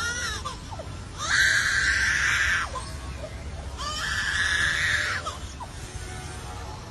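A bird giving two long, harsh, hissing screeches of about a second and a half each, with a few faint whistled notes between them.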